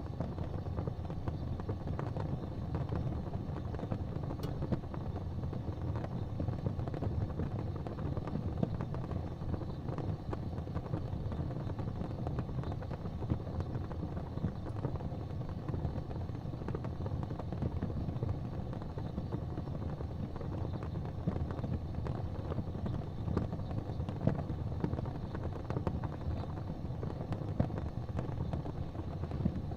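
Wood fire burning in a fireplace: a steady low rumble with frequent small crackles and pops throughout.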